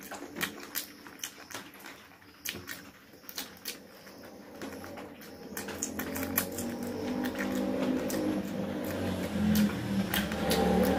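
Close-miked eating: chewing, lip smacking and wet clicks as meat is bitten off spiced chicken leg pieces, busiest in the first half. From about five seconds in a low rumble builds and grows louder underneath.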